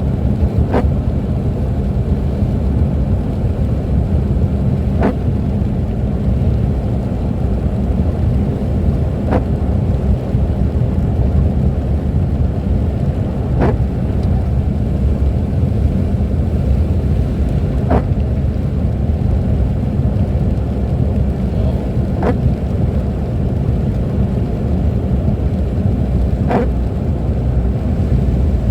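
Steady low rumble of a car driving, with a short sharp click repeating about every four seconds.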